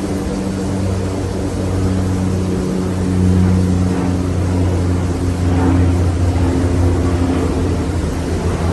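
Casablanca Halogen Star ceiling fan running: a steady low motor hum under the even rush of air from its blades.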